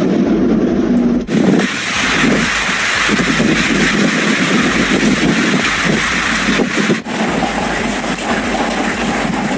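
Loud, steady rushing noise of a heavy storm downpour. It breaks off sharply and resumes about a second in and again about seven seconds in.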